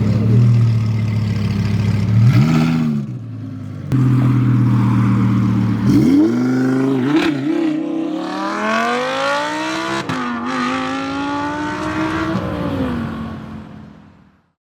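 A car engine revs briefly, then accelerates hard with its pitch climbing, breaks off once about ten seconds in as it shifts gear, climbs again, then drops and fades away.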